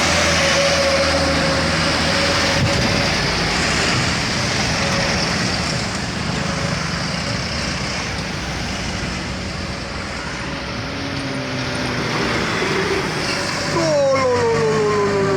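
Heavy vehicle running close by: a steady low engine hum under dense rumbling noise, with a held tone at the start. Near the end, several pitched sounds glide downward.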